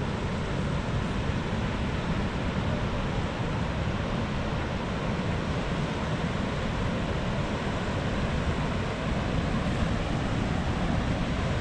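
Steady rush of ocean surf breaking on a beach, mixed with wind buffeting the microphone.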